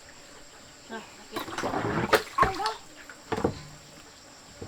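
A short vocal sound over splashing water, with a few sharp knocks.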